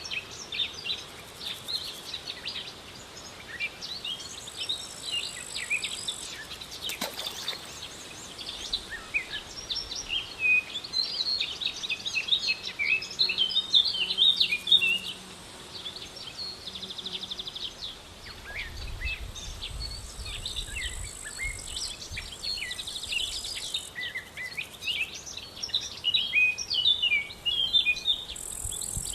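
Many small birds chirping and calling in quick, overlapping short notes, with a faint high insect buzz coming and going. A single sharp click sounds about seven seconds in, and a low rumble rises for a few seconds past the middle.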